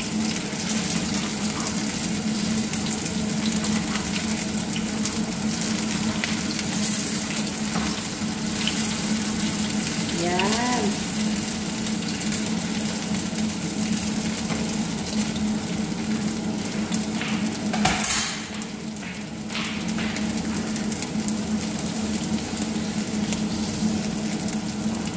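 Tuna nuggets frying in shallow oil in a nonstick pan, a steady sizzle, with a steady low hum underneath. There is one sharp knock about 18 seconds in and a brief vocal sound about 10 seconds in.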